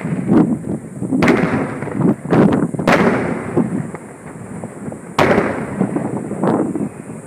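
Aerial fireworks shells bursting: a run of sharp bangs, several close together between about one and three seconds in and another near five seconds, each trailing off into a low rolling rumble.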